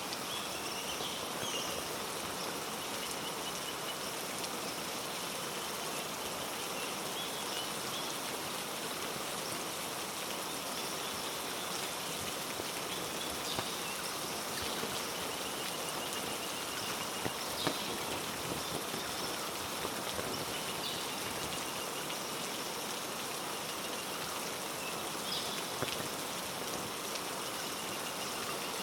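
Heavy rain falling steadily on rainforest foliage, an even hiss with scattered drip ticks. A few faint high chirps come and go above it.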